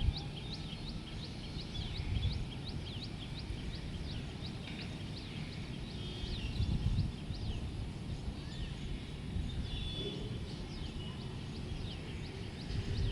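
Many small birds chirping together, a dense run of short, sharp calls, over a steady low rumble.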